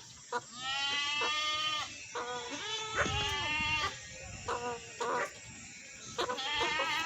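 Goat bleating repeatedly: one long call, then a string of shorter ones.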